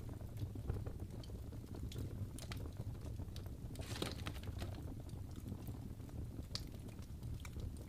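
Wood fire burning in a fireplace: irregular crackling with sharp pops over a low steady rumble, with a louder pop about four seconds in and another about six and a half seconds in.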